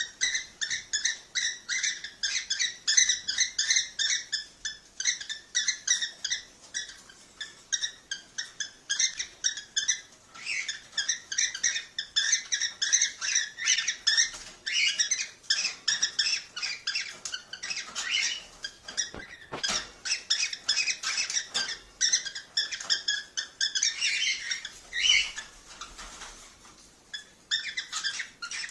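Cockatiels chirping in a rapid, continuous stream of short high calls, several a second, with a brief lull shortly before the end.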